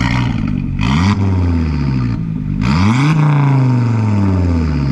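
2004 Volvo S60R's turbocharged inline-five revved twice through its custom exhaust with the electronic cutout open, which leaves it nearly straight-piped. Each rev rises quickly and falls back slowly to idle.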